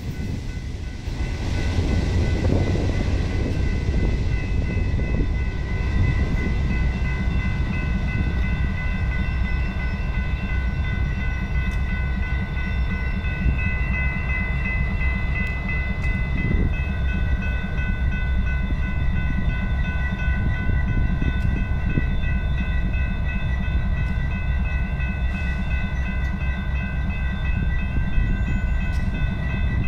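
Union Pacific sand-and-rock freight train rolling through a grade crossing with a steady low rumble. Over it, the crossing's electronic warning bells ring steadily as a set of high tones.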